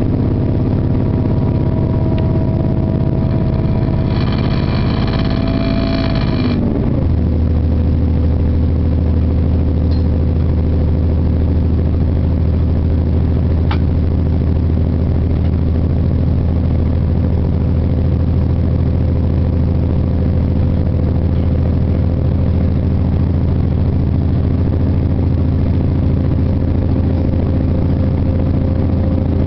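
Train running at speed, heard from inside the carriage: a steady rumble with a humming engine note. A high whine stops about six or seven seconds in, and at the same moment the engine note drops in pitch, then runs steady.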